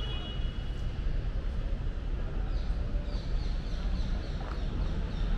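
City street ambience with a steady low rumble, and from about halfway a bird calling in a run of short, high chirps, about three a second.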